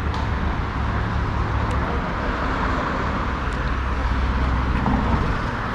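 Exhaust of a 1972 Datsun 240Z's 2.8-litre L28 inline-six running steadily at low revs, a low, even drone with no revving.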